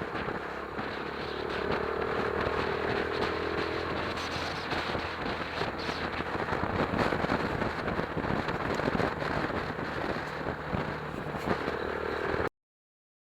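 Chinese GX-R 250 motorcycle's engine running under heavy wind rush over the microphone, getting louder about one and a half seconds in. The sound cuts off suddenly near the end.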